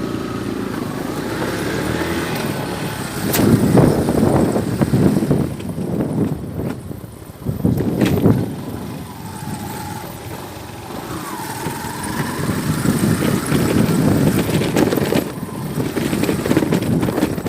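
Road traffic and vehicle engines running, with louder surges as vehicles pass about four and eight seconds in.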